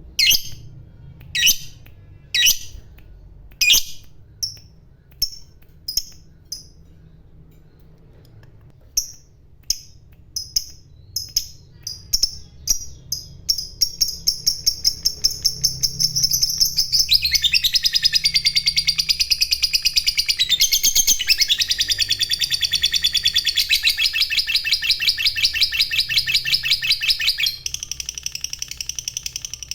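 Lovebird calling: sharp single chirps about a second apart, then quickening into a long, continuous rapid chattering trill, the 'ngekek' of a lovebird in full voice, which drops to a quieter, different chatter near the end.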